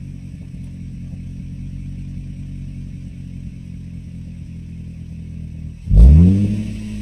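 Nissan Stagea 350S's 3.5-litre V6 through a modified Kakimoto exhaust, holding steady low revs with an even hum, then revving hard with a sharply rising pitch about six seconds in, the loudest moment. The sound is sped up, so the pitch runs higher and the revving faster than in real time.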